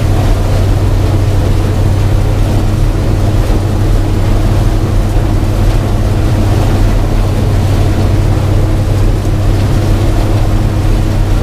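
Old gasoline-engined combine running steadily under load while harvesting corn, a constant low engine drone with the noise of the corn head and threshing works over it.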